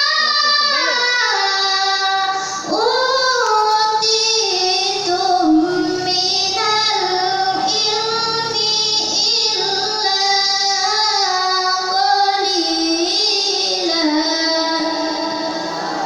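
A young girl reciting the Qur'an in melodic tajwid chant (tilawah), holding long ornamented notes that wind up and down in pitch with hardly a pause.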